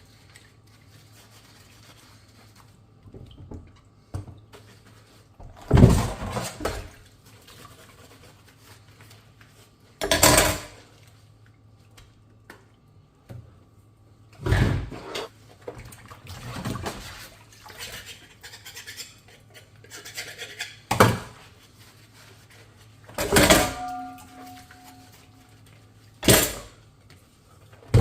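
Dishes being washed by hand: about seven separate bursts of water splashing and swishing with dishes knocking and clinking, a few seconds apart, one clink ringing briefly.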